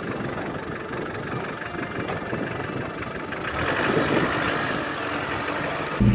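Land Rover 4x4's engine idling steadily, heard from outside the vehicle. Music cuts in at the very end.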